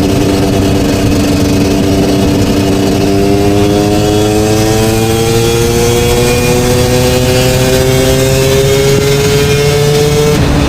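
KTM 250 single-cylinder two-stroke motorcycle engine pulling under load, its pitch climbing steadily for about ten seconds as the revs build, then breaking off abruptly near the end.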